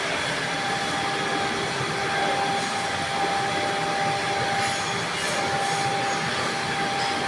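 Steady machine-like running noise with faint steady whines through it, holding an even level.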